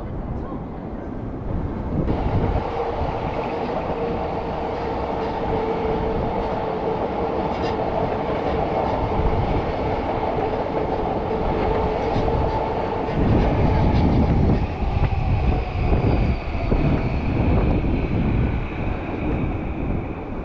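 Electric trains running through Tokyo Station: a steady hum with a held tone for about ten seconds, then heavier, uneven low rumbling a little past the middle.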